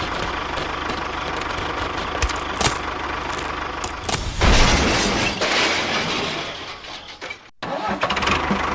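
A small engine runs steadily. About four seconds in, a loud rushing, rattling noise breaks in and fades away over the next two or three seconds.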